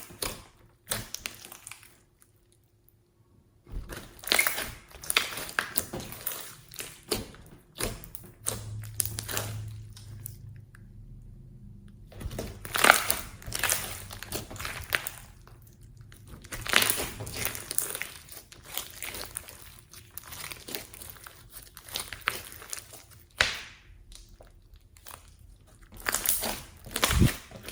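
Hands handling and mixing slime and its add-ins: irregular crinkling, clicks and taps against containers, with a brief pause about two seconds in.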